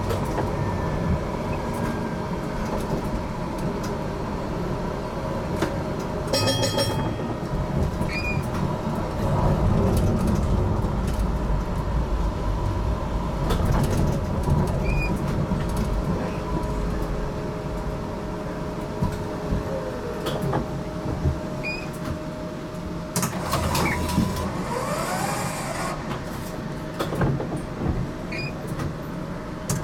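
Interior running noise of an HTM GTL8 articulated tram in motion: steady wheel-on-rail rumble with a held motor whine. About seven seconds in there is a brief high ringing, and near the end the whine glides up and down in pitch.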